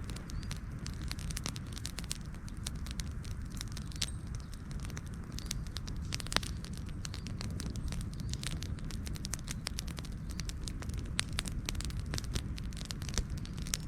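Wood campfire crackling, with frequent sharp irregular pops over a steady low rumble of the burning fire.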